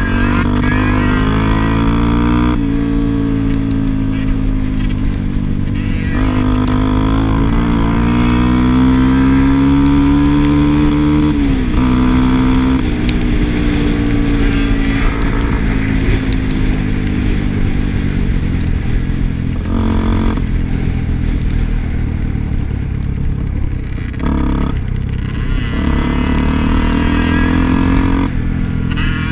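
Motorcycle engine running under way, its revs rising and falling as the throttle is worked, with short breaks every few seconds.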